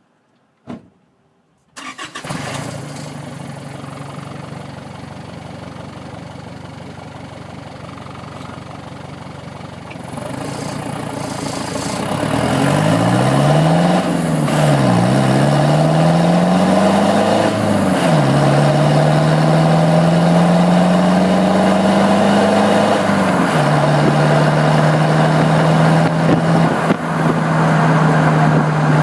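2006 Holden Rodeo 3-litre four-cylinder turbo diesel with a straight-through 3-inch turbo-back exhaust (single muffler, no catalytic converter) starting about two seconds in and idling. From about ten seconds in it gets louder: the revs rise and fall twice, climb slowly, then hold at a steady higher note.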